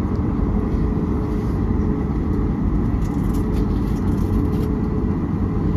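Steady engine and airflow drone inside an airliner cabin in flight: a constant low rumble with a steady hum, and a few faint light ticks in the middle.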